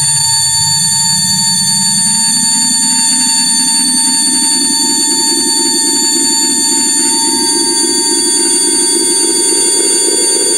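Electrical buzz and whine from lighting: several steady high-pitched tones over a low buzz that rises slowly in pitch.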